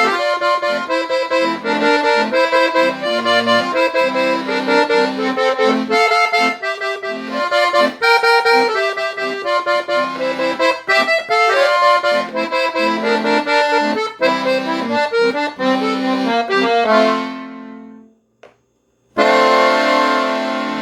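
Accordion (sanfona) playing an instrumental melody over bass notes. About seventeen seconds in it settles on a held chord that fades out. After a moment of silence, a new sustained chord starts near the end.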